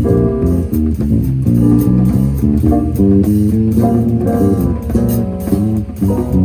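A live band playing, with guitar and bass guitar to the fore over light drums.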